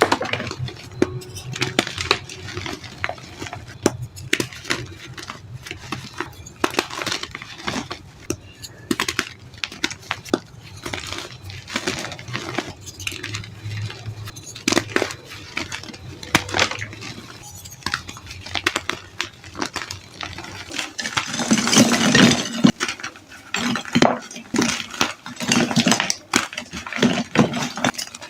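Reformed gym chalk being crushed and crumbled: a dense run of gritty crunches and crackles. From about 21 seconds in it becomes louder and fuller as a new batch of powdery reformed chalk is crushed.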